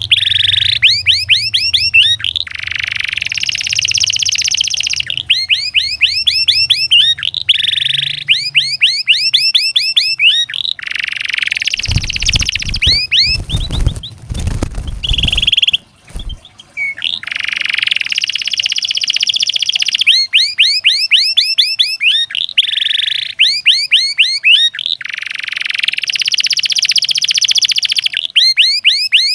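Domestic canary singing: fast runs of repeated rising-and-falling whistled notes alternating with buzzy rolled trills, phrase after phrase. Near the middle the song breaks for a few seconds of low rumbling noise with knocks.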